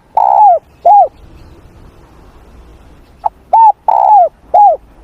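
Spotted dove cooing: two phrases of a few short notes and one longer note, each note dropping in pitch at its end. The first phrase finishes about a second in, and the second comes near the end.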